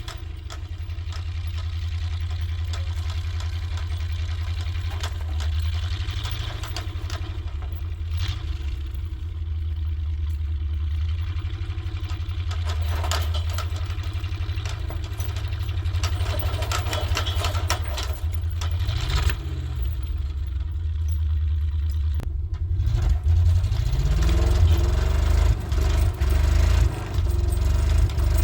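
1967 International 1200 pickup's engine running under load, a steady low rumble. It revs with rising pitch about two-thirds of the way through, then revs harder and louder again and again near the end.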